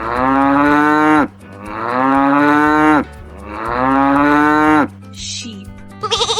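A cow mooing three times in a row. Each long moo drops in pitch as it ends.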